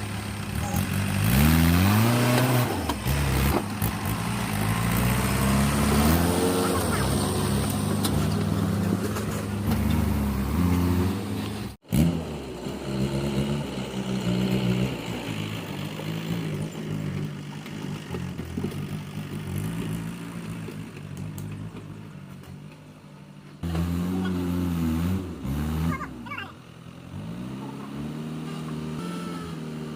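Mahindra tractor's diesel engine revving up and dropping back again and again, with a brief break about twelve seconds in and another burst of revs near the end.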